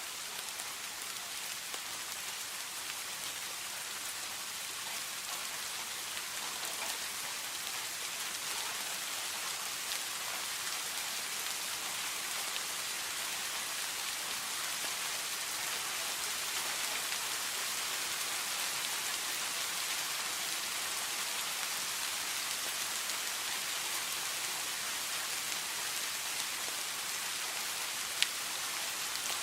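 Steady rain falling, a dense even hiss that swells slightly, with one sharp tick near the end.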